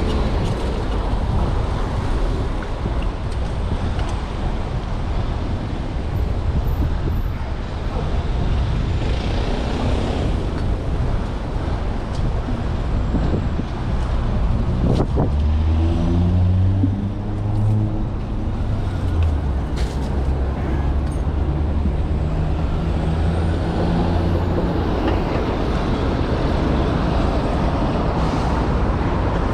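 City street traffic heard from a moving bicycle, with a steady low rumble of wind on the microphone. About halfway through, a heavy vehicle's engine runs close by for several seconds, rising in pitch at first.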